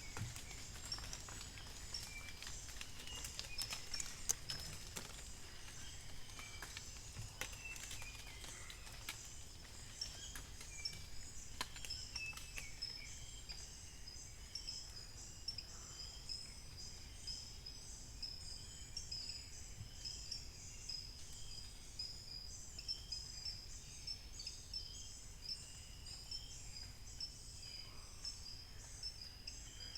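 Dawn forest chorus: a dense, steady high-pitched chirping chorus with scattered short bird calls, and many sharp clicks through the first dozen seconds.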